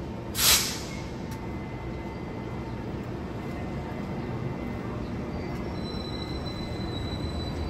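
Taiwan Railways Fu-Hsing train's locomotive moving slowly past the platform with a steady low rumble. There is a short sharp hiss about half a second in and a faint high wheel squeal near the end. No horn is sounded.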